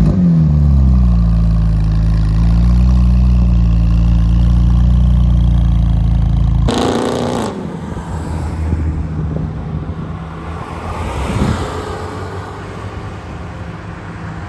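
Porsche engine coming down off a rev and settling into a steady low drone, then cutting off abruptly after about six and a half seconds. After the cut, a brief rising engine note is followed by quieter car and engine sound.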